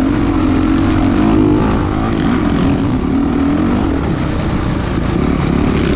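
Motocross dirt bike engine running continuously, its pitch rising and falling as the revs change.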